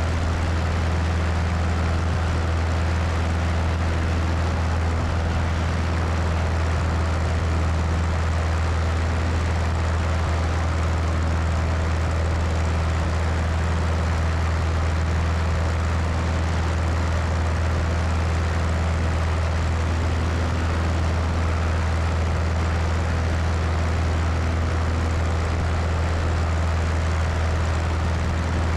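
Cessna 172's piston engine and propeller running steadily in flight, a low, even drone with wind rushing over the wing-mounted microphone.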